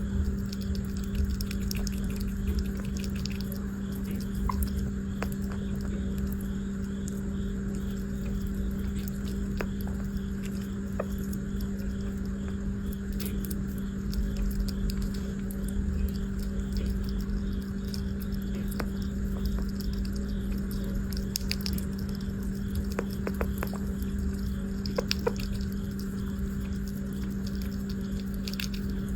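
A steady low electrical hum, with scattered faint clicks and light taps over it.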